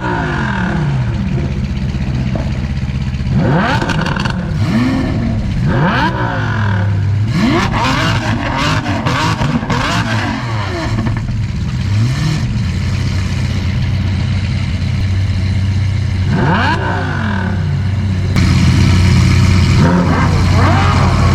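Lamborghini supercar engine revved repeatedly from idle, each rev climbing sharply and dropping back, with crackling pops as the revs fall in the middle stretch, then idling steadily with a few more revs and getting louder near the end.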